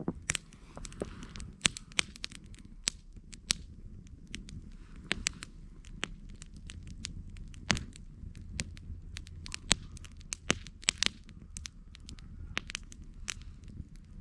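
Wood fire crackling and popping, with sharp irregular snaps, several loud ones, over a low steady rumble of burning.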